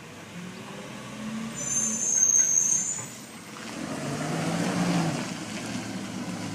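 Garbage truck at the curb with its engine running. A high-pitched squeal lasts about a second around two seconds in, and the engine rises in speed and loudness from about four seconds in.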